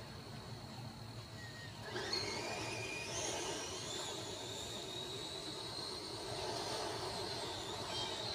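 Electric motor of an RC short course truck whining as it speeds up about two seconds in, then running on steadily, with a rough rolling noise underneath.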